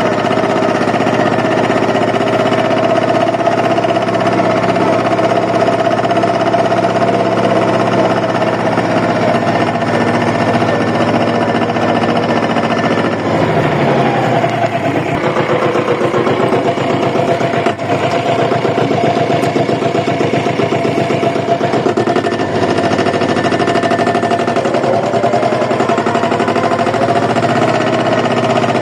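Compact tractor engine running under way with a hard, knocking beat. About halfway through the revs drop and the note falls, then it runs unevenly and builds back up near the end.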